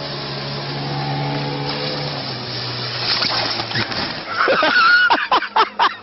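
Motorboat engine running steadily, its pitch slowly falling, then giving way about four seconds in to loud, excited high-pitched shouting mixed with sharp knocks and clatter.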